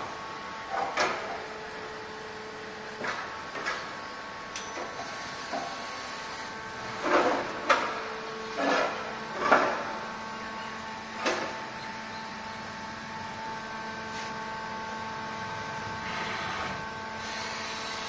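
Colchester CNC 350 lathe running: a steady machine hum made of several steady tones that shift in pitch a few times, with short clunks and clatters now and then, the loudest bunched in the middle.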